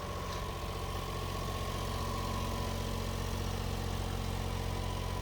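A 2015 Daihatsu Hijet Jumbo mini truck's small three-cylinder engine idling steadily.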